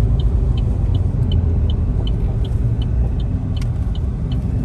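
Car driving, with steady road and engine rumble heard from inside the cabin. A faint, regular ticking runs through it, about three ticks a second.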